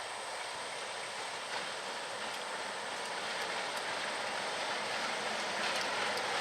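Freight train rolling past: a steady noise of wheels on rail with a few faint clicks, growing slightly louder toward the end.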